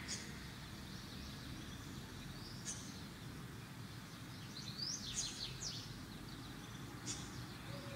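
Steady low background noise with a few short, high bird chirps, a quick run of them about five seconds in.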